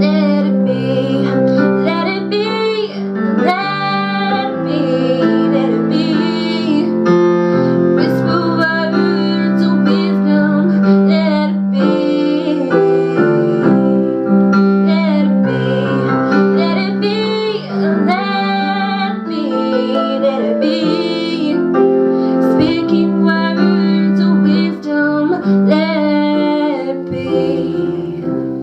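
High school choir of young female voices singing with piano accompaniment.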